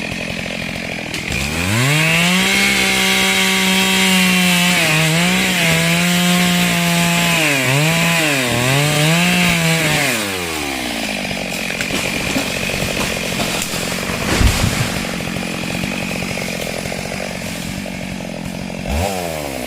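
Chainsaw revved up to full speed, its pitch dipping and recovering several times, then dropping back to a lower steady running about ten seconds in. A single thump comes partway through, and the saw revs briefly again near the end.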